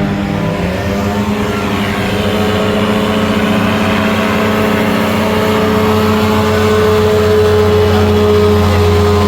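Light aircraft piston engine and propeller running steadily, growing slightly louder in the second half.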